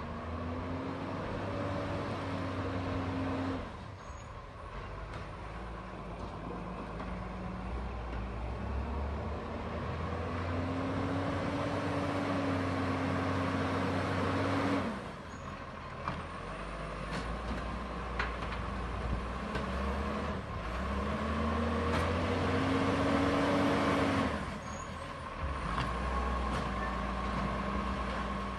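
Garbage truck running, its engine and hydraulics working in three long cycles: each time a rising whine builds, holds, and then cuts off suddenly. A few sharp clicks are heard in between.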